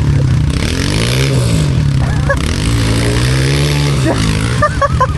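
Pit bike engine running close by, its engine speed rising and falling twice as the throttle is worked, between stretches of steady running.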